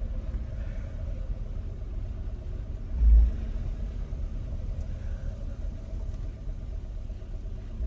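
Car engine running at low revs, heard from inside the cabin as a steady low rumble, with one brief low thump about three seconds in.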